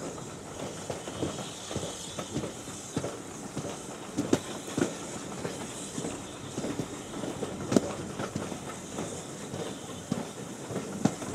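Passenger carriages of a steam-hauled train running over the track, heard from an open carriage window: a steady rumble and hiss under irregular clicks and knocks of the wheels and coach bodies, with a few sharper knocks now and then.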